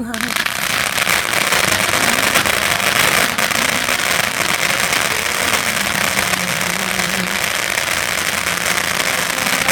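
Consumer fireworks crackling densely and continuously, a hissing, crackling wash that starts suddenly and holds steady for about ten seconds.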